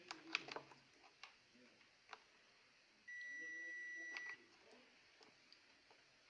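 Multimeter continuity buzzer giving one steady high beep for just over a second, about three seconds in, with a few light clicks before and around it. The beep shows the vacuum cleaner's power switch closes its circuit when switched on: the switch is sound.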